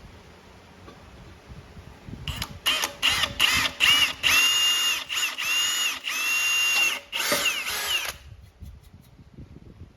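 Power drill starting about two seconds in with several short trigger bursts, then two longer steady runs with a high whine, spinning down and stopping near the end. It is drilling stop holes at the ends of cracks in a Ram 2500 68RFE aluminum transmission case so the cracks won't spread before welding.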